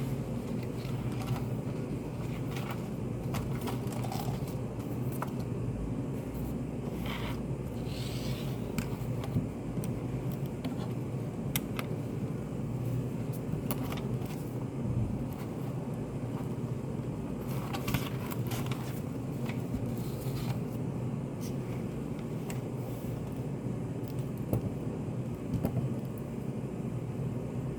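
Study cafe room ambience: a steady low hum with scattered small clicks, taps and brief scrapes or rustles throughout.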